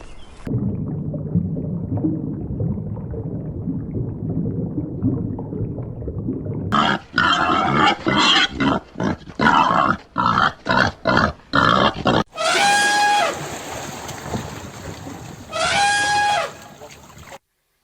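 Domestic pig grunting low and continuously for several seconds, followed by a stretch of louder, choppy pig calls that break off and restart many times. Near the end come two separate held, pitched calls from another animal.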